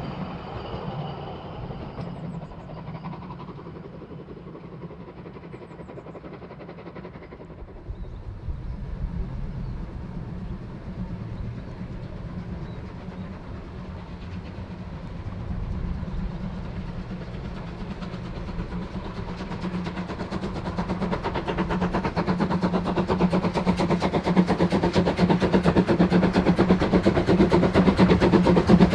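Narrow-gauge steam locomotive 99 1741-0 working a train, its running sound growing steadily louder over the second half as it approaches.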